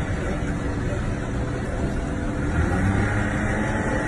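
A car engine running amid steady city street traffic noise.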